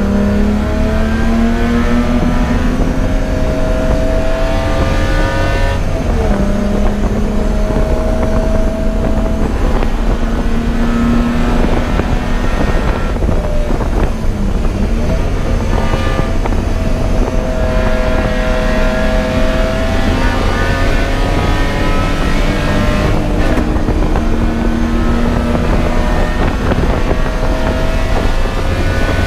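Race car engine running hard at speed, its pitch climbing and dropping again as it is driven through gear changes and lifts, with short breaks in the note about 6, 14 and 23 seconds in.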